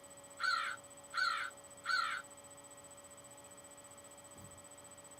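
Crow cawing: three short harsh caws about 0.7 s apart, then it stops.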